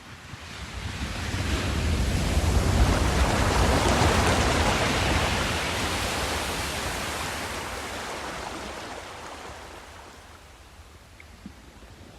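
Sea waves: one long wave surges up over the first couple of seconds, peaks, and slowly washes away, fading out near the end.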